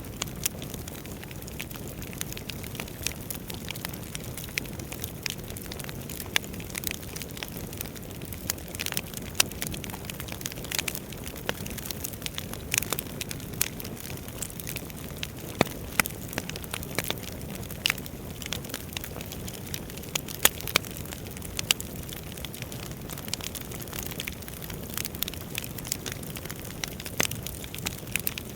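Wood fire burning in a fireplace: a low, steady rush of flames with frequent sharp, irregular crackles and pops from the burning logs.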